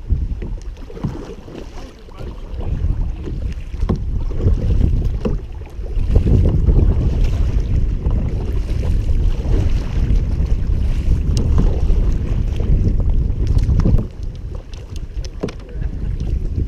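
Wind buffeting the microphone out on open water: an uneven low rumble that swells loud about six seconds in and drops back near the end, with a few light knocks.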